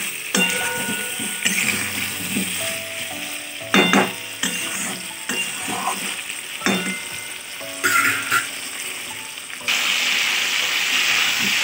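Boiled potatoes, peas and tomatoes frying in masala in a pan, sizzling steadily while a spatula stirs them, knocking against the pan a few times. The sizzling grows louder near the end.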